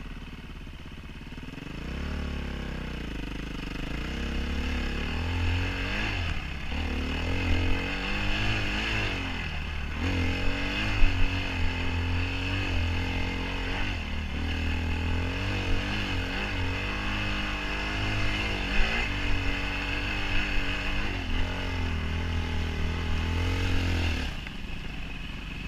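Enduro dirt bike engine, at a low idle at first, then pulling away about two seconds in and rising and falling in pitch as the throttle is opened and closed while riding. It drops back to a low idle near the end.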